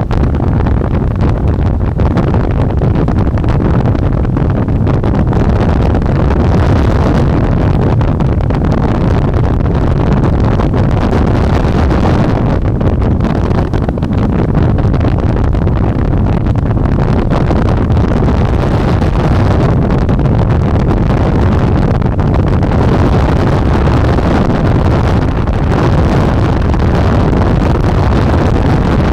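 Steady, loud wind noise buffeting the microphone of a rider on a moving electric bike. The noise sits mostly low and never lets up.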